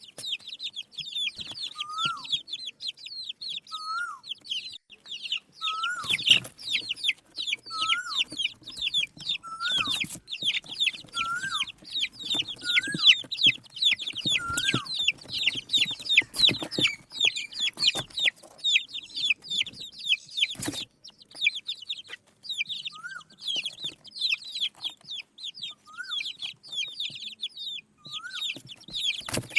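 A group of desi chicken chicks cheeping continuously in high, rapid chirps. A lower, rising-then-falling call repeats about every two seconds, with a few sharp knocks in between.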